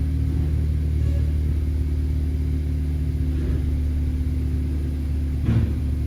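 Straight-piped exhaust of a 2018 Honda Accord LX's 1.5-litre turbo four-cylinder idling steadily with a low drone, with one brief bump about five and a half seconds in.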